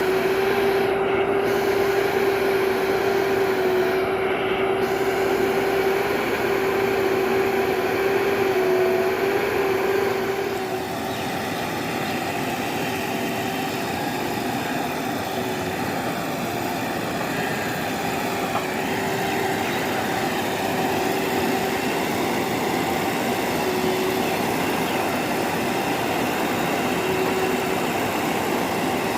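Heavy diesel engine of a truck or backhoe loader running under load with a steady drone and a strong held tone; about ten seconds in it eases off a little and runs on more quietly.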